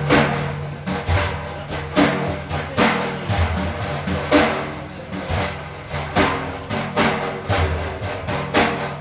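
Drums beating a steady rhythm of strikes, about one to two a second, over sustained low ringing tones, in the percussion accompaniment of a Sufi dhikr.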